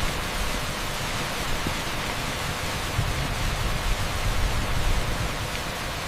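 Torrential rain pouring onto an asphalt street: a dense, steady hiss with an uneven low rumble beneath.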